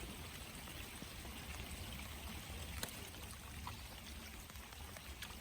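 Water pouring steadily into the river at an inflow, with a few light clicks.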